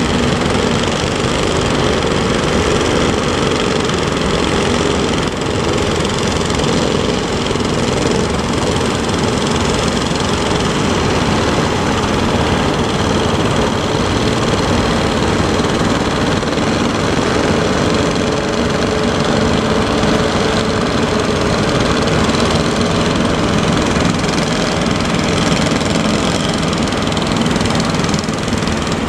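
Boat engine running steadily, a continuous even drone.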